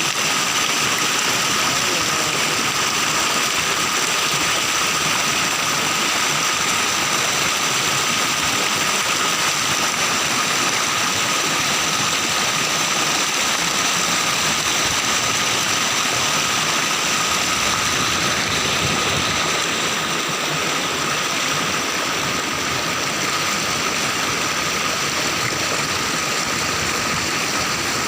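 Steady rushing water of a waterfall, with thin high steady tones running through it; a little quieter from about twenty seconds in.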